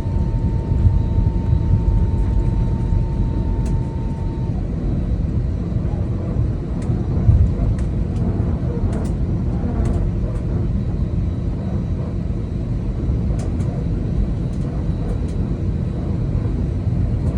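Steady low rumble of an Airbus A320-200 heard from inside the passenger cabin, with a thin steady high tone that stops about four seconds in and a few faint ticks.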